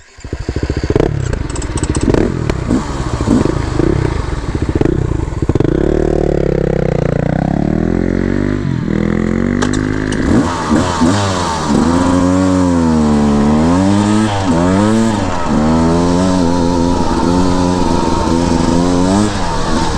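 Beta 300RR two-stroke dirt bike engine ridden on a trail, clattering at low revs for the first few seconds, then revving up and down again and again as the throttle is worked.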